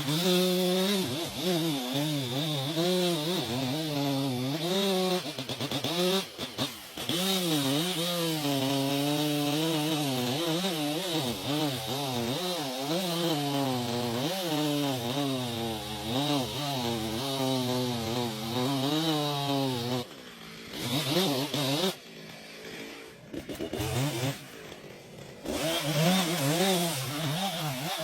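Chainsaw running and cutting, its engine pitch wavering up and down under load. Late on it drops back quieter and uneven for a few seconds, then revs up again.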